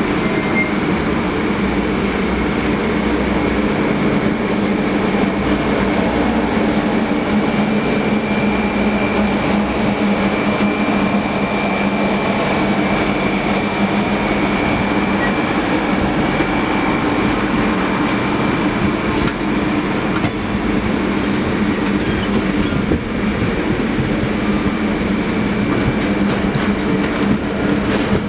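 A train rolling steadily along the rails with a continuous rumble and a thin, high wheel squeal over it.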